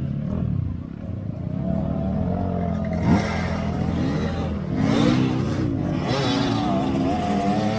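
Off-road vehicle engine revving hard under load, its pitch climbing and falling again and again, with a sharp knock about three seconds in.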